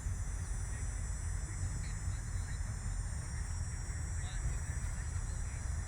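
Steady low rumble of outdoor background noise, with faint distant voices.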